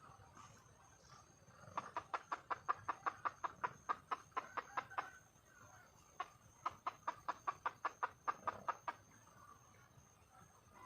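Red junglefowl hen clucking in a fast run of about six clucks a second for some three seconds, then one lone cluck and a second run of about two seconds. It is the wild hen's call to attract a male.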